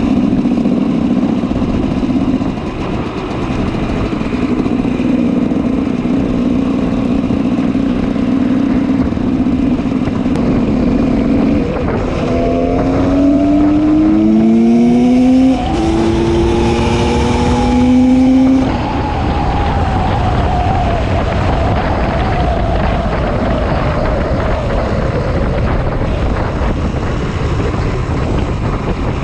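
2004 GasGas 300 EC two-stroke single with an FMF Powercore 2 exhaust running at a steady pitch, then accelerating hard about twelve seconds in. It rises through three gears, each climb in pitch broken by a shift, before rolling off the throttle with the pitch slowly falling.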